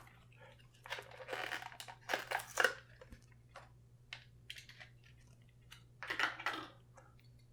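Cardboard and plastic packaging of a die-cast toy car being torn open and handled: a run of short crinkling, tearing bursts, the longest about six seconds in, over a faint steady hum.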